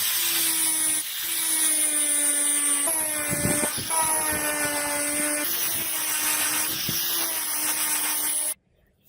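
An electric power tool running at a steady speed, with a constant whine over a loud hiss. It stops abruptly about a second before the end.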